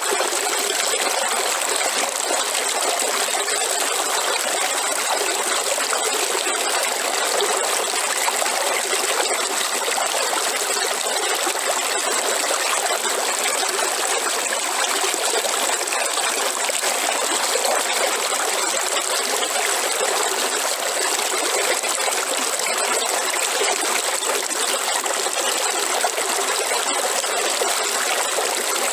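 River water flowing and trickling, an even, unbroken rush with a thin steady high-pitched tone above it.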